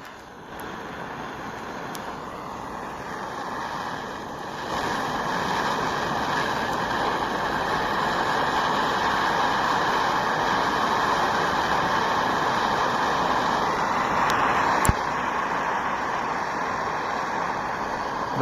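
Gas torch flame hissing steadily as it heats a piece of ceramic fibre insulation. It comes on just after the start, grows louder about five seconds in, then holds steady, with a sharp click near the end.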